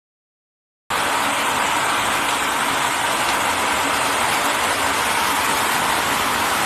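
Shower head spraying water in a steady, even rush that cuts in suddenly about a second in.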